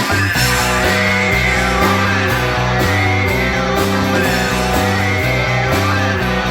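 Guitar-led rock music: an instrumental stretch of the band's song, with held notes over a steady bass line.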